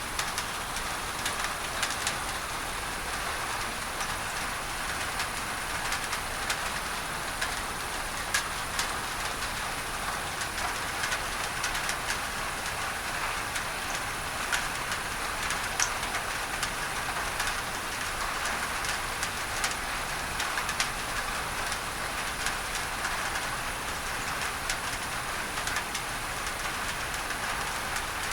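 Steady rain on a tin roof, with many separate drops ticking on the metal over a continuous hiss of masking noise.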